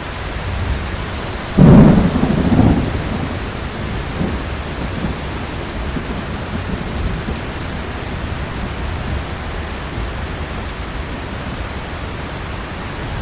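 Heavy rain falling steadily, broken about a second and a half in by a sudden loud thunderclap that rumbles on for about a second. Faint scattered crackles of a fireplace sit under the rain.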